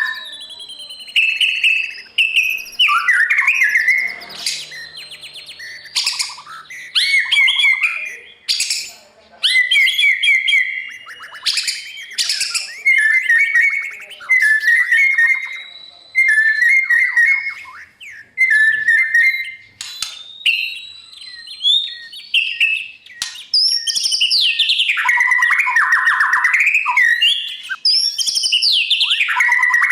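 White-rumped shama singing a long, varied song of sliding whistles, fast rattling trills and harsher notes, in phrases a second or two long with short gaps between them.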